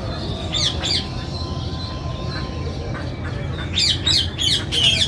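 Several birds chirping and squawking in quick, high, downward-sliding calls, sparse in the middle and thickening into a busy chatter near the end, over a steady low rumble.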